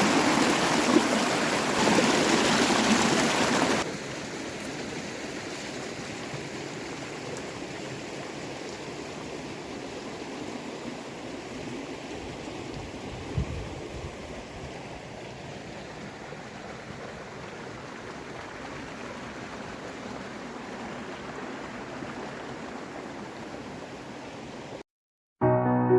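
Fast-flowing mountain stream water rushing and gurgling in a steady hiss. It is loud for the first few seconds, then drops suddenly to a quieter, steady rush.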